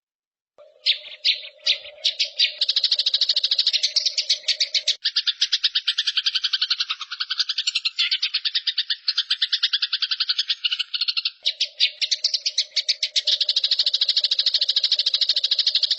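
A bird call recording: a fast, continuous trill of high-pitched notes, starting with a few separate notes about half a second in, with a lower steady tone beneath it for much of the time.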